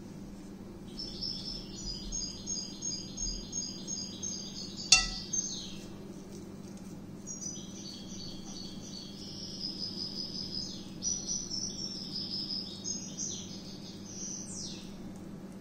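Birdsong: rapid, repeated high chirping trills in two long phrases, with one bright chime-like strike about five seconds in, over a steady low hum.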